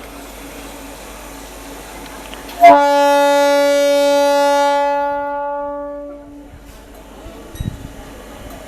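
Horn of a WDP-4 diesel locomotive sounding one long, steady single-note blast of about four seconds. It starts suddenly and fades away at the end.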